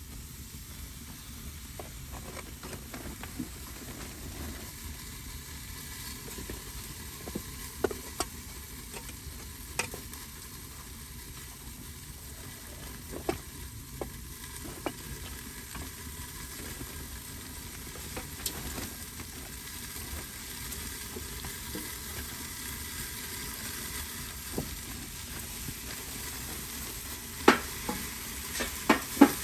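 Wood fire crackling, with a steady hiss and scattered sharp pops and a few louder pops near the end.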